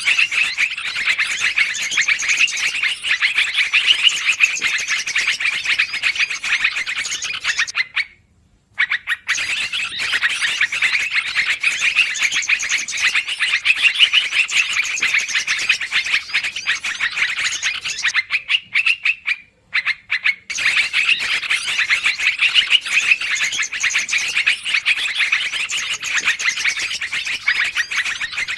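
Lure recording of yellow-vented bulbuls (trucukan) chattering noisily and without pause, a dense run of high calls broken by short gaps about eight and twenty seconds in.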